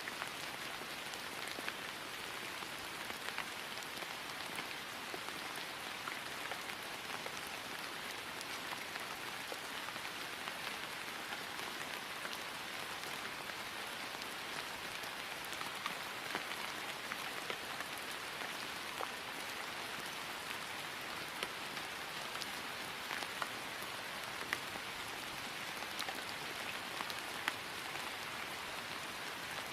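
Steady rain falling on grass: an even hiss with many small scattered drop ticks.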